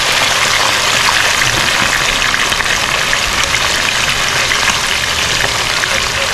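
Chicken drumsticks frying in hot oil in a wok: a steady sizzle with fine crackling.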